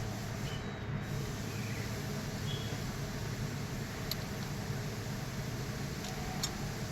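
Steady low drone of a running engine or motor, with a few faint clicks.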